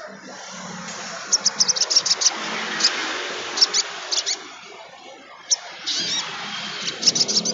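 A sogon, a small sunbird-type songbird, singing rapid, very high chattering chirps in several quick bursts, a few of them short rising notes, over a steady background hiss.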